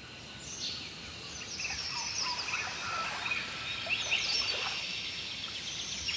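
Several birds singing at once, with many overlapping chirps and quick falling trills, fading in from silence at the start.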